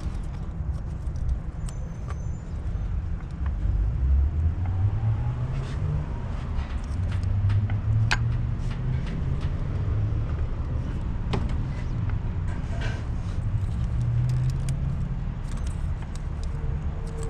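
A low engine rumble whose pitch drifts up and down, with scattered sharp metallic clicks and clinks of parts and tools being handled.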